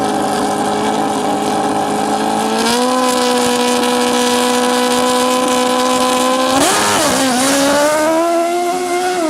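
Dirt drag motorcycle engine held at steady high revs. The pitch steps up slightly about three seconds in, blips up and back down sharply about seven seconds in, then climbs again toward the end.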